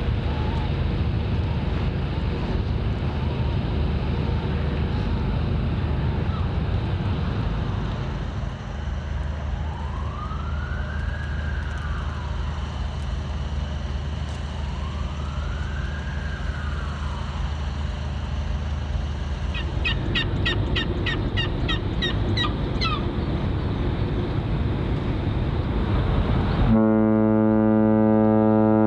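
A steady low engine drone, with a siren wailing up and down twice partway through and a quick run of short high chirps after it. Near the end a ship's horn sounds a loud, deep, steady blast.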